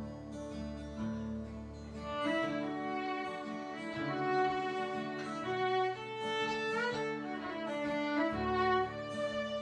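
Live acoustic folk tune: a fiddle plays the melody over acoustic guitar, coming in about two seconds in after held opening chords.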